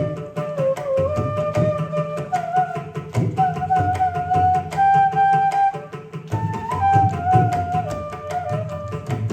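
Carnatic concert music: a bamboo flute plays a melody of held notes that step and slide in pitch, over a steady, dense pattern of hand-drum strokes.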